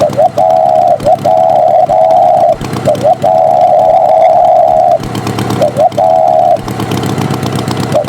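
A loud steady horn-like tone sounded in repeated blasts, with quick up-and-down pitch flicks between them, over a low engine running.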